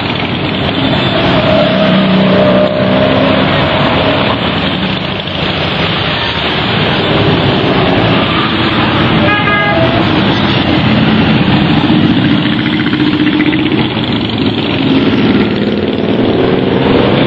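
A stream of motorcycles riding past, their engines running loud and continuous, with rising revs as bikes go by near the end.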